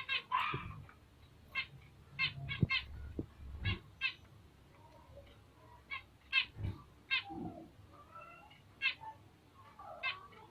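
Bengalese finches giving short, sharp chirping calls, about a dozen scattered irregularly, with a few soft low thuds in the first few seconds.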